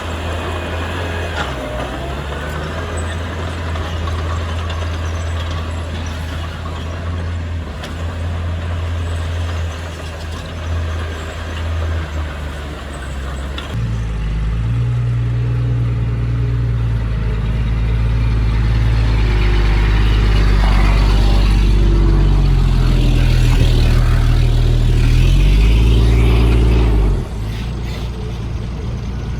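Heavy diesel earthmoving equipment running. About halfway through the engine note jumps up and gets louder as it works harder. Near the end it drops back suddenly to a lower, steady running.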